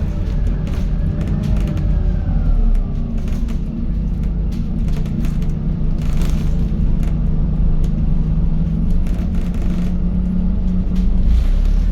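Inside a Scania N280UD double-decker bus under way: its diesel engine drones steadily, with a transmission whine that glides up and down and scattered body rattles.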